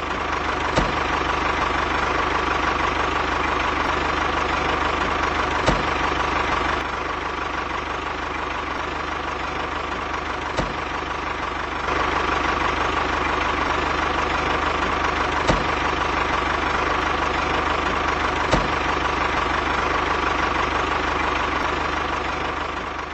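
A small motor running steadily, with a sharp click every few seconds. The level dips a little for a few seconds partway through.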